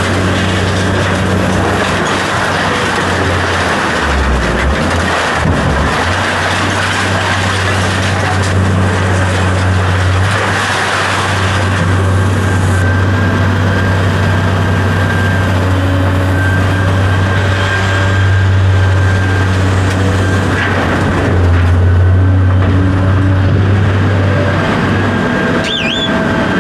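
Motor vehicle running steadily: a low, constant drone under an even rushing noise.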